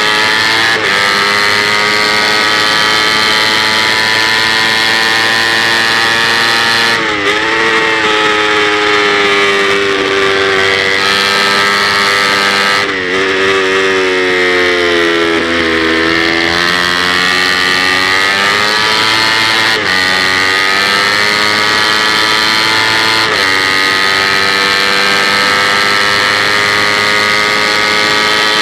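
Kawasaki Ninja 250 race bike's parallel-twin engine heard on board at high revs under hard riding, with quick breaks in pitch at gear changes. About halfway through, the revs fall over a few seconds and then climb back, as when slowing for a corner and accelerating out.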